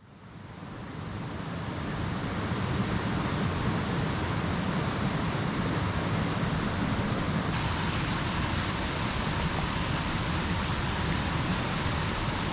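Steady rushing noise that fades in over the first couple of seconds and then holds evenly, with no clicks or tones in it.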